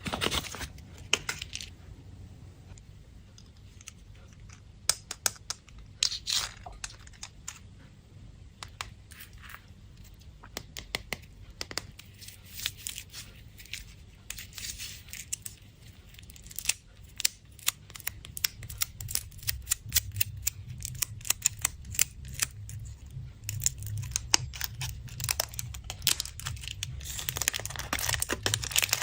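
Candy wrappers being handled and torn open, with scattered sharp crinkles and tearing that grow busier and louder in the last few seconds.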